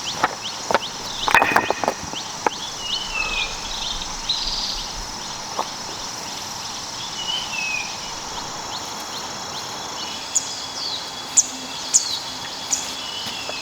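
Forest ambience: steady high insect buzzing, with a bird's short falling call repeating every few seconds and a run of sharp high chirps in the last few seconds. A few sharp knocks in the first two seconds.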